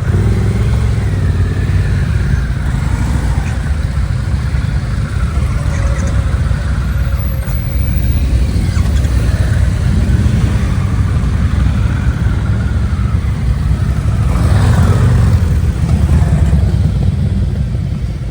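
Harley-Davidson motorcycle engine running, with a steady deep sound that grows louder around fifteen seconds in.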